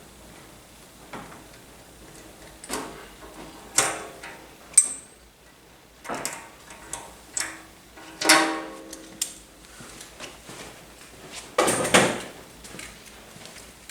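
Irregular metal clanks and clinks of a wrench and pipe fittings being handled at an air compressor tank, a few of them ringing briefly, the loudest about 8 and 12 seconds in.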